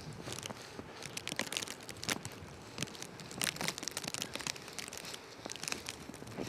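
Footsteps crunching in snow at a walking pace, each step a short crackly crunch.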